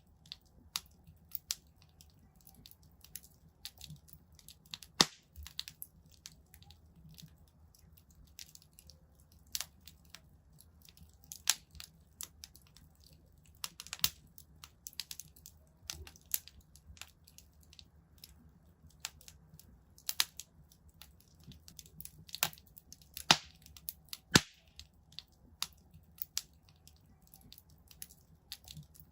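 Wood fire in a fireplace crackling: irregular sharp pops and snaps, a handful of them much louder, over a faint low rumble.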